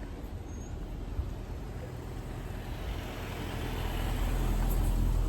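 A motor vehicle drives past on the street, a low engine and tyre rumble that grows louder over the last couple of seconds.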